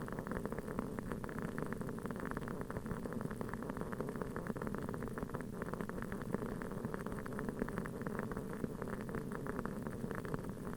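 Wooden wick of a large aroma candle burning and crackling steadily, many small irregular pops like a tiny campfire, over a faint hiss.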